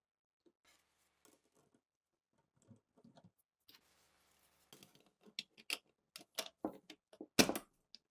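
Scattered light clicks and knocks of small parts being handled. They are sparse at first and grow busier in the second half, with the loudest knock about seven and a half seconds in.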